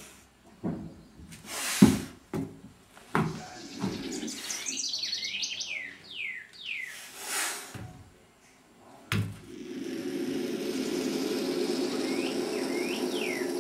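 Birds hissing in two bursts, with runs of quick falling chirps in the middle and again near the end. A few sharp knocks sound in between.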